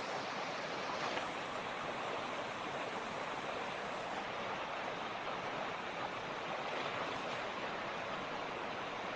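Mountain creek water rushing and splashing over rocks in a steady, unbroken flow.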